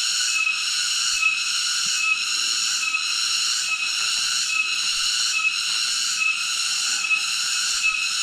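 A loud chorus of cicadas buzzing, swelling and easing in a regular pulse a little faster than once a second.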